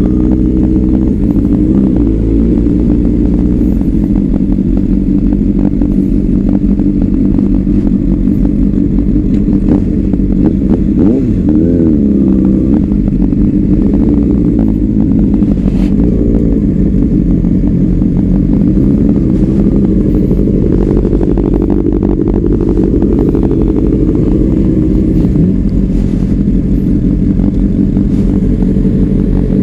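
Honda CBR600RR inline-four with a Leo Vince aftermarket exhaust running steadily, its engine note rising and falling a few times.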